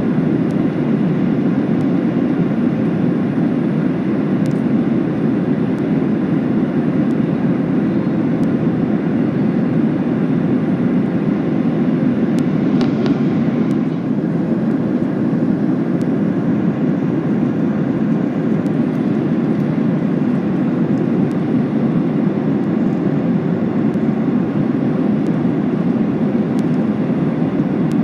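Steady cabin noise inside a Boeing 737-800 in cruise flight: engine and airflow noise, a loud, even low rumble that holds level throughout.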